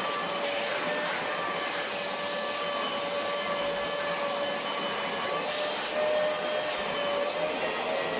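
Vacuum cleaner running steadily during interior car cleaning: a constant motor whine over rushing air, briefly a little louder about six seconds in.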